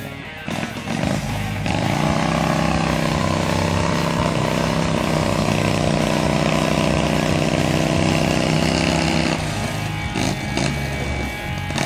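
Argo-style amphibious off-road vehicle's 25 hp Kohler engine working hard as it drives through a muddy creek. The engine revs up about two seconds in and holds a steady, loud pitch, then eases off about ten seconds in.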